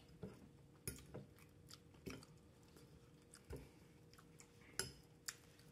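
Faint close-up chewing of a mouthful of broccoli, carrots and melted cheese, with a handful of soft, scattered mouth clicks and small fork ticks on the bowl.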